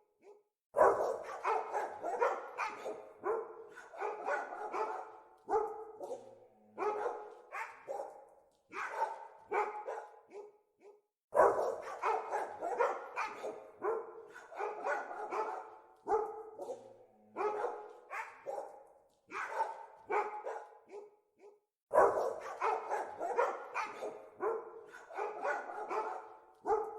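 Dogs barking in rapid runs of barks, separated by short pauses. The loudest runs start abruptly about a second in, near the middle and again later.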